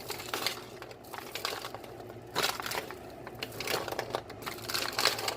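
Coated popcorn being stirred on a baking sheet partway through baking, the kernels rustling and crunching in a run of irregular scrapes.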